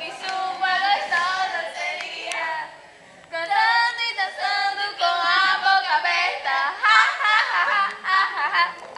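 Young voices singing a song, with a short break between lines about three seconds in.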